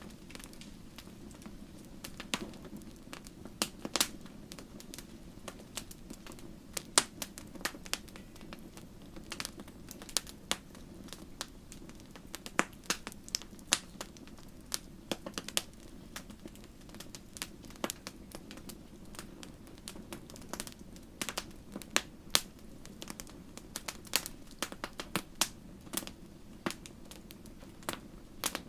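Fire in a fireplace crackling: irregular sharp pops and snaps, several a second at times, over a steady low hiss.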